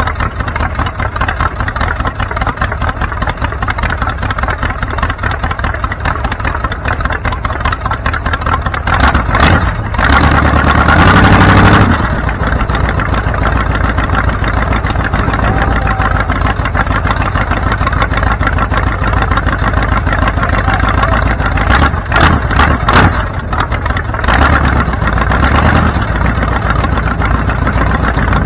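Car engine running steadily. About ten seconds in it revs up loudly for a couple of seconds, and a few sharp knocks follow near the middle of the stretch.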